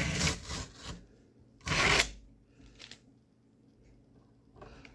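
Brief rustling and rubbing noises from handling, a few short bursts in the first three seconds, the loudest just before two seconds in, then near quiet.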